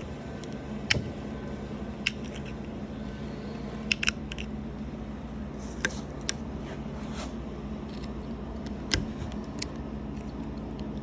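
Handling noise: scattered light clicks and knocks, about ten of them at uneven intervals, over a steady low hum.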